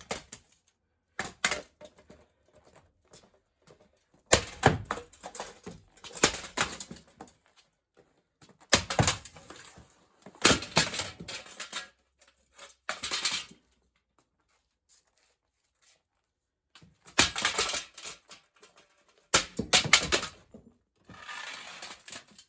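Sledgehammer blows smashing a cheap ceiling fan, metal and plastic parts crunching and clattering. The strikes come in about nine bouts of one to several hits each, with a quiet stretch of a few seconds in the second half.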